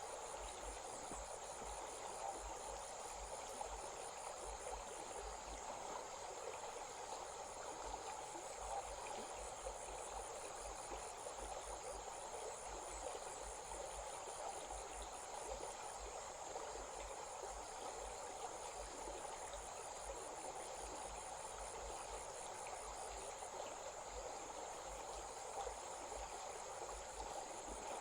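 A stream flowing steadily, with insects calling over it: a continuous high trill and a faster high pulsing chirp that comes and goes.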